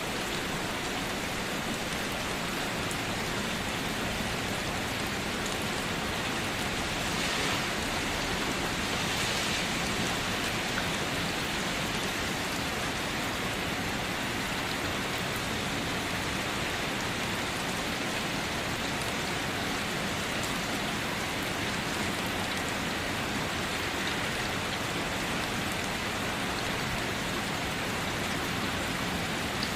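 Steady rain falling, an even hiss without a break, swelling slightly about seven to ten seconds in.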